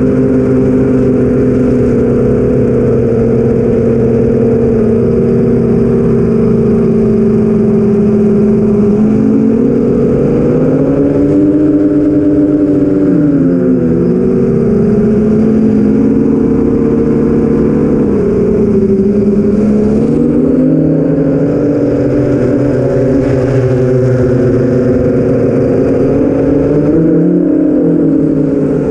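An 8-inch FPV quadcopter's four BrotherHobby Avenger 2812 1115kv brushless motors spin Master Airscrew 8045 props in flight, heard from the onboard camera. The pitch of the motor drone rises and falls with the throttle, most plainly around 10 to 14 seconds in, around 19 to 21 seconds, and again near the end.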